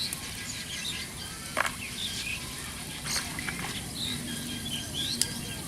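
Small birds chirping and calling repeatedly in short scattered notes, with a couple of sharp clicks about a second and a half in and near the end.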